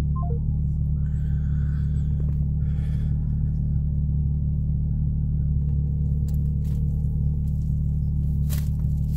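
Car engine running with a steady low hum, heard from inside the cabin, with a faint click near the end.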